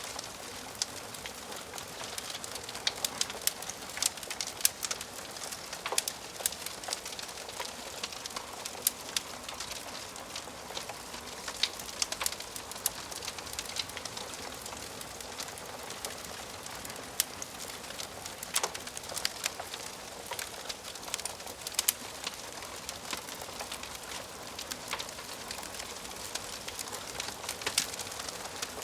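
Wood fire crackling in a fireplace: a steady hiss of burning, broken by frequent sharp, irregular pops and snaps.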